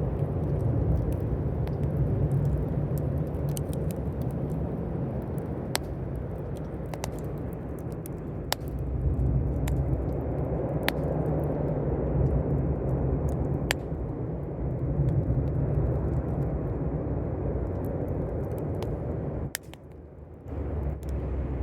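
Campfire burning, with scattered sharp crackles and pops over a steady low rumble; the rumble dips briefly near the end.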